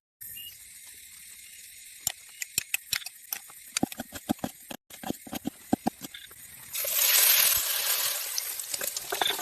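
A run of sharp knocks and clicks, then a loud steady hiss that starts about seven seconds in.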